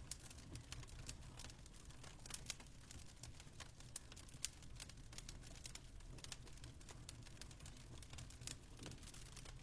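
Faint fireplace fire crackling: irregular small pops and snaps, a few louder ones scattered through, over a steady low rumble.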